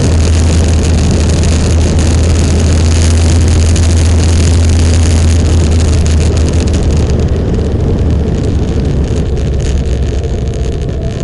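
Motorcycle riding along: steady engine rumble under a loud rush of wind noise on the microphone. The hiss eases somewhat after about seven seconds.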